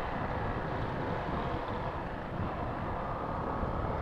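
Motorcycle running steadily on the road, with wind noise on the microphone.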